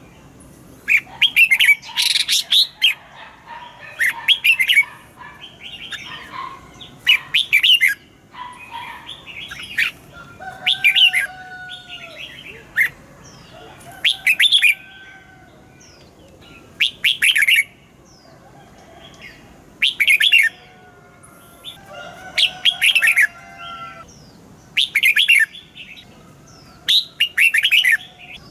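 Red-whiskered bulbul singing: short, bright phrases repeated every two or three seconds, with fainter whistles in between.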